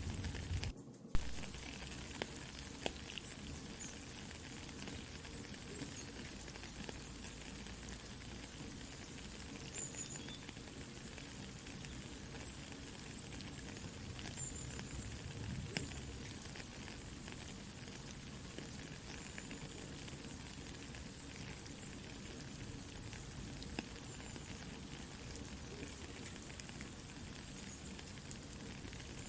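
Steady soft rain with a campfire crackling and popping. The sound drops out very briefly about a second in, and a sharp pop follows.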